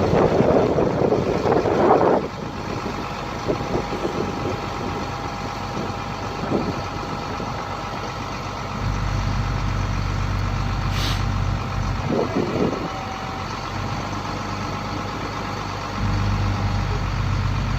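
A GMC C-7500 grain truck's Cat 3126 diesel running while it powers the hydraulic hoist raising the grain box. A steady whine runs through most of it, and the low engine rumble grows louder about nine seconds in and again near the end. There is a louder rush in the first two seconds.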